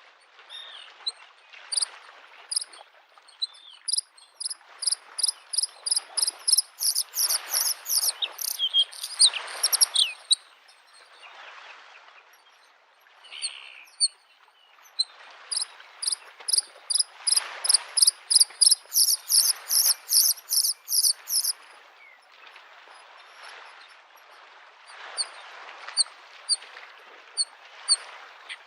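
Bluethroat singing: two long runs of sharp, high, rapidly repeated notes, and a sparser run near the end. Under it, small waves wash against the lake shore in slow surges.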